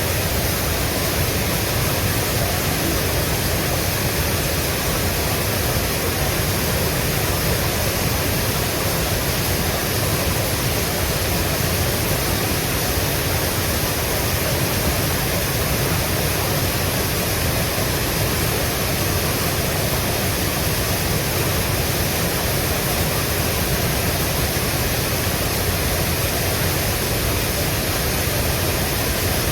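Mountain stream water rushing over rocks: a steady, even rush of water.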